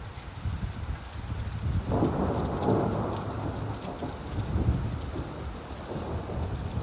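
Steady rain with a low rumble of thunder that swells about two seconds in and slowly fades.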